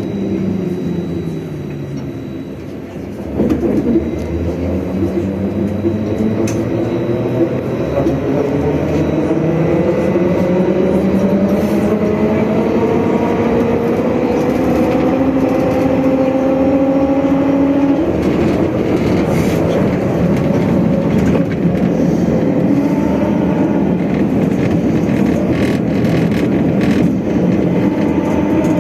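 Trolleybus electric traction drive whining inside the cabin over road rumble and rattles. The whine drops in pitch over the first few seconds. A knock comes about three seconds in, then the whine rises slowly for some fifteen seconds as the trolleybus gathers speed, and steadies after that.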